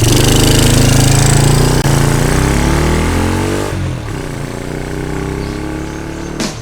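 Honda Super Cub's single-cylinder four-stroke engine running under way. Its pitch falls and it grows quieter a little past the middle as it slows.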